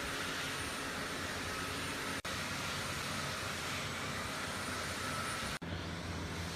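Steady whir of an electric woodworking power tool running, broken twice by abrupt cuts.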